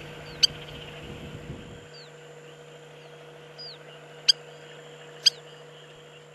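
Spur-winged lapwing giving short, sharp calls: one early, then two about a second apart later on. Faint short falling chirps sound between them.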